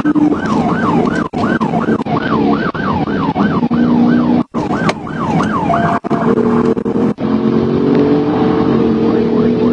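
Police car siren on a fast yelp, rising and falling about three times a second, stopping about six seconds in. Steady vehicle running and road noise carry on underneath.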